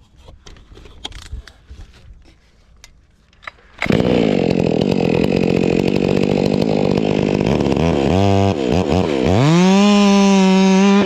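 Stihl chainsaw starting up about four seconds in and running at a steady idle, then revved briefly and brought up to a steady full-throttle whine near the end.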